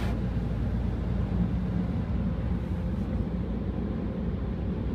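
Steady low rumble with a hiss, heard from inside a car's cabin as it goes through an automatic car wash.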